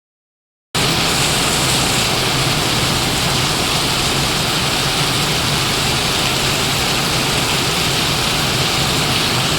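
Heavy rain pouring down: a loud, steady hiss that starts about a second in, with a low steady hum underneath.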